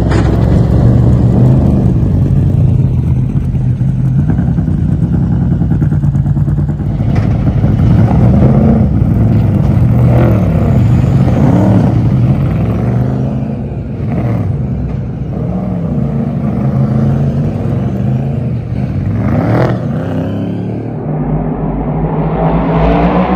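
NASCAR Cup cars' V8 engines, fitted with mufflers, running at speed on track with a muffled exhaust note. Several cars pass one after another, each pitch swelling and then dropping away as it goes by.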